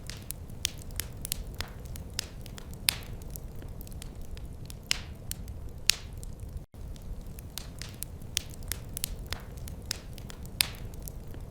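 Wood fire crackling and popping irregularly, sharp snaps over a steady low rumble of the flames. About two thirds of the way in, the sound cuts out for an instant.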